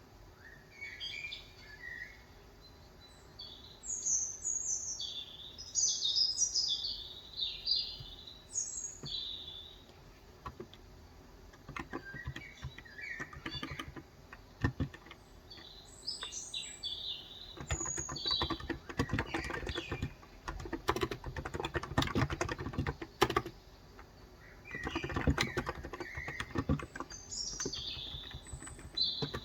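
Typing on a Cox Endeavor electro-capacitive (contactless) 35 g tenkeyless keyboard, in runs of quick keystrokes that are densest through the middle. Birds chirp in short twittering phrases, mostly in the first third and again near the end.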